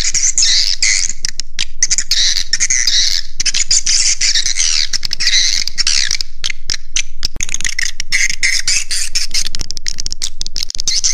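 Swiftlet roosting lure call: a dense chorus of edible-nest swiftlet twittering chirps with rapid clicking throughout, easing briefly about two-thirds of the way through. It is the 'inap' (roosting) sound played in swiftlet houses to draw the birds in to roost.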